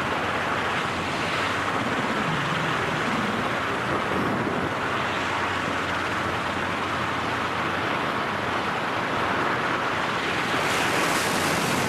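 Steady rush of wind in a skydiving freefall, buffeting a microphone.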